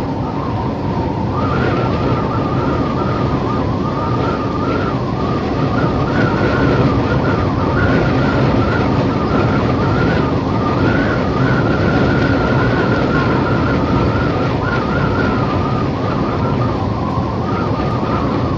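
Howling wind ambience: a steady deep rush with a thin whistling tone that slowly wavers up and down.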